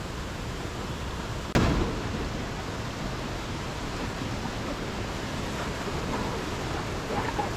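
Steady rushing of waterfall water, with one sudden thump about one and a half seconds in.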